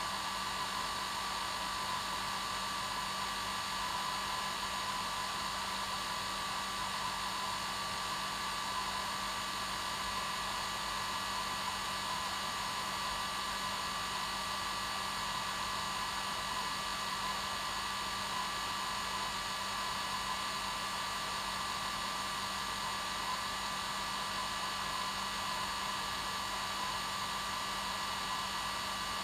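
Hair dryer running steadily on its normal setting, a continuous airy whoosh with a constant motor whine and a low hum, unchanging throughout.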